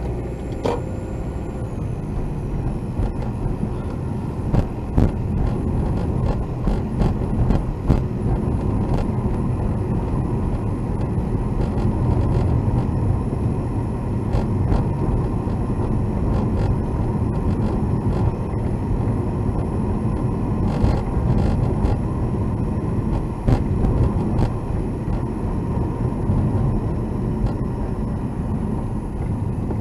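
Car driving, heard inside the cabin: a steady low road and engine rumble with irregular clicks and knocks scattered through it. These knocks are the abnormal noise the owner is recording.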